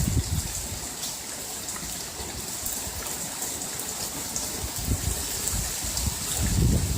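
Heavy rain falling steadily, a continuous hiss, with low gusts of wind buffeting the microphone at the start, about five seconds in and near the end.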